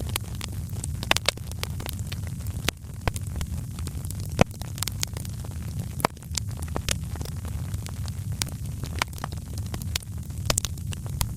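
Wood fire in a fireplace crackling, with irregular sharp pops over a steady low rumble. The loudest pops come about four and a half and six seconds in.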